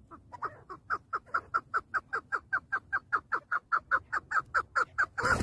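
Chukar partridge calling: a fast run of short, clucking notes, about six a second, each falling in pitch, quickening into an even rhythm.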